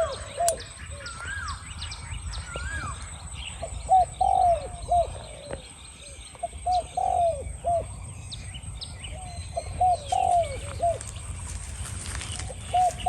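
Spotted doves cooing in several separate phrases of low, bending coo notes, the decoy dove and a wild dove calling back and forth. A few higher chirps from another bird come in the first few seconds.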